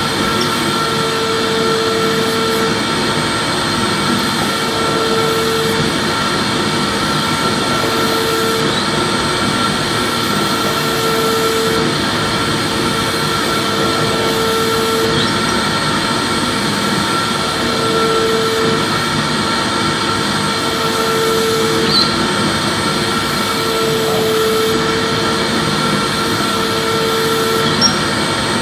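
Vacuum cleaner running steadily: an even rushing noise with a constant high whine, and a lower hum that comes and goes every two to three seconds.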